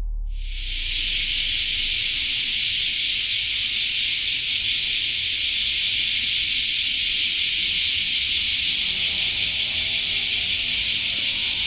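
Steady, loud, high shrill chorus of insects, pulsing fast and unbroken, with a low rumble underneath.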